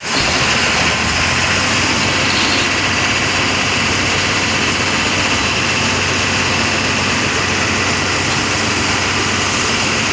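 Lorry under way: steady engine drone under loud, even road and wind rush that starts abruptly with a cut.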